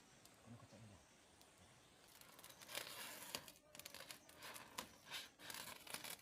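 Rustling and crinkling in irregular bursts with sharp clicks, starting about two seconds in.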